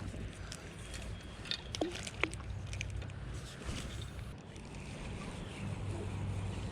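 Low, steady rumble of river water and wind around a kayak, with a few faint clicks and taps in the first few seconds.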